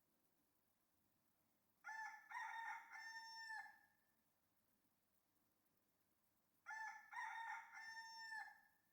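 Rooster crowing, cock-a-doodle-doo, twice, the two crows about five seconds apart and much alike.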